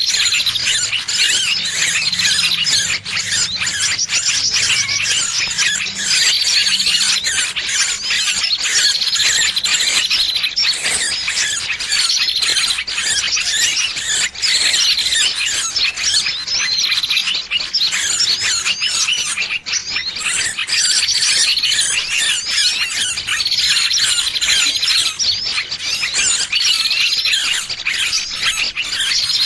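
Small bird's distress squealing, the 'burung kejepit' trapping lure call of a bird caught and held. It is a dense, unbroken stream of shrill chattering calls with a short falling note every few seconds.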